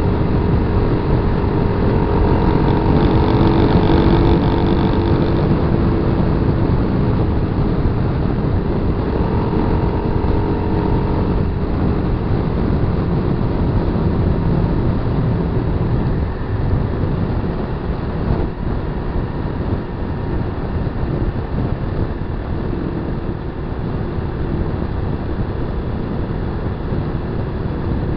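Kawasaki KLR250's single-cylinder four-stroke engine running while riding off road, with wind on the microphone. The engine note wavers up and down for the first dozen seconds, then sinks into a rougher, slightly quieter rumble.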